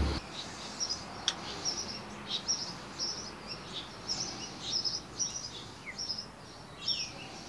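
Small birds chirping, many short high calls repeating over a faint background hiss, with one sharp click about a second in.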